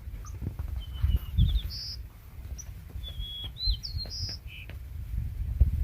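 A small bird singing: a varied run of short high chirps and whistled notes, some falling and some rising, in two phrases about two seconds apart. Low irregular thuds run underneath.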